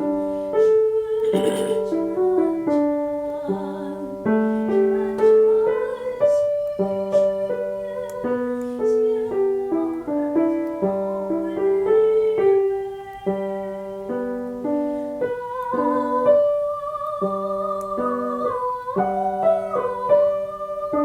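A woman singing a slow song with piano accompaniment; her held notes waver with vibrato in the second half.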